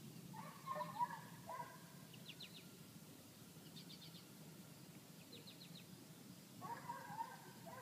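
Faint birdsong: short wavering chirps near the start and again near the end, and three quick runs of high trilled notes between them, over a low steady hum.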